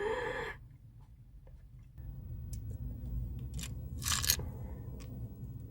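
A person biting into and chewing raw, unwashed food close to the microphone, with a sharp crisp bite about four seconds in.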